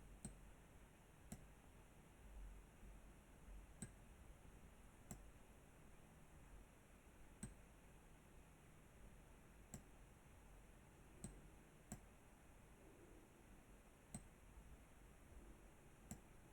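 Computer mouse clicking, about ten single clicks spaced irregularly a second or two apart over faint room tone, as installer steps are accepted one after another.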